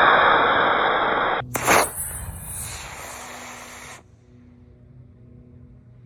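Loud, steady rushing hiss of air noise that cuts off abruptly about a second and a half in. A sharp knock and a shorter, fainter hiss follow, dying away after about four seconds.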